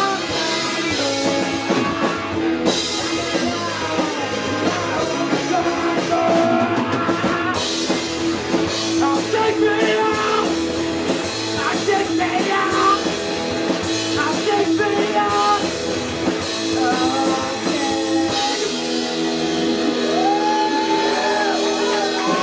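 Live rock band playing: drum kit and guitar, with a voice singing over them.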